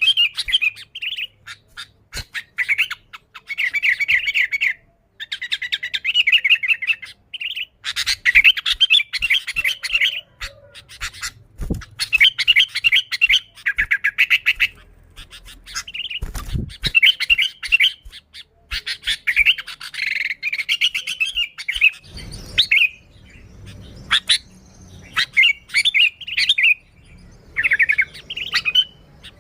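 Sooty-headed bulbul (kutilang) singing busily: repeated bursts of quick, bubbly chirping phrases, each a second or two long with short pauses between. A few faint low knocks come under the song.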